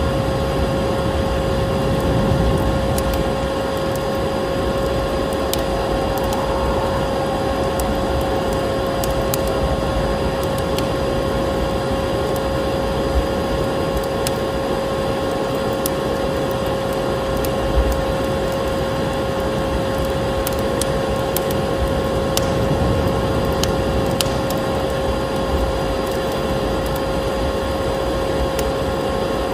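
A vacuum cleaner motor running steadily with a constant whine, mixed with a wood fire crackling in a fireplace, with scattered sharp pops.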